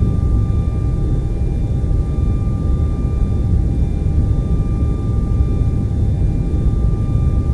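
TV static noise, a steady deep rushing hiss with most of its weight in the low end. Faint, steady high whistling tones sit above it.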